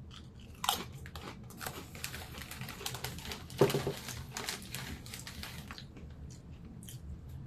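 Someone biting and chewing Doritos Tangy Pickle tortilla chips: a run of crisp crunches, loudest just under a second in and again at about three and a half seconds, dying away near the end.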